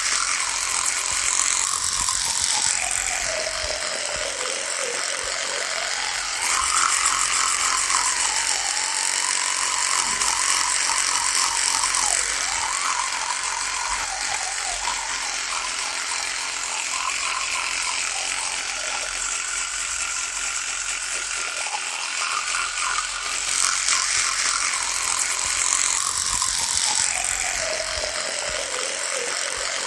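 Electric toothbrush buzzing with a rattly vibration, its pitch dipping and rising slowly every few seconds as the brush works.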